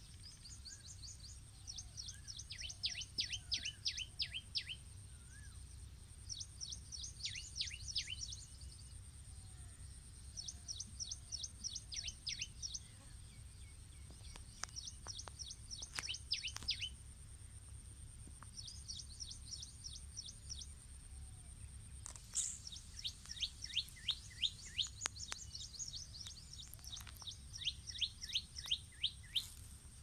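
A songbird singing: phrases of rapid, high, falling notes, repeated about eight times, a phrase every few seconds.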